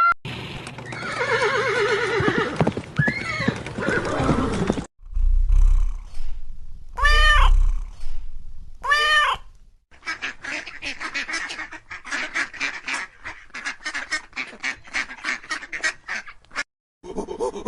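Animal calls from several different animals in turn, as in an animal-sounds compilation: first a crowded mix of calls, then three separate rising-and-falling calls, then a fast run of short repeated calls.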